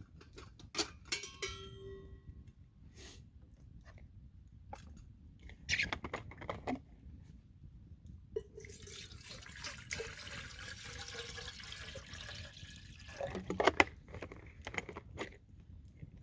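Liquid being poured for about four seconds, between a metallic clink with a short ring and several knocks of handled camp gear.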